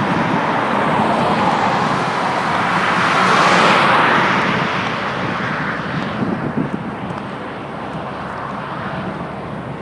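A motor vehicle passing on the road, its tyre and engine noise swelling to a peak a few seconds in and then slowly fading.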